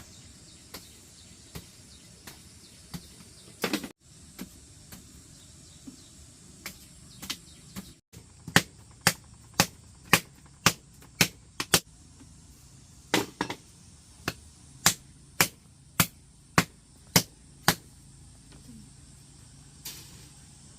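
Hammering: light, evenly spaced taps at first, then two runs of hard blows about two a second with a short break between.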